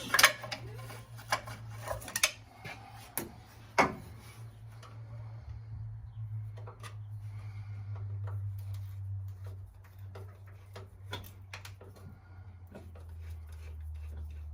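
Hand tools clinking and knocking as a screwdriver is worked on a radiator hose clamp, with several sharp knocks in the first four seconds and sparse light clicks after. A low steady hum runs underneath.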